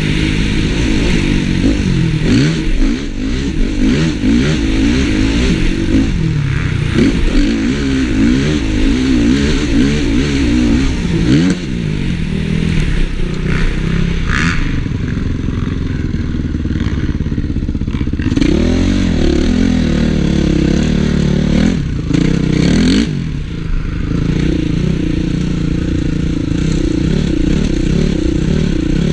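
Honda CRF450 motocross bike's single-cylinder four-stroke engine revving up and down again and again as it is ridden, with some clatter.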